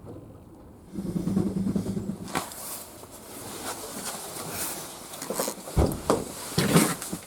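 A fantail pigeon cooing for about a second, starting a second in, followed by scattered knocks and rustles, the loudest near the end.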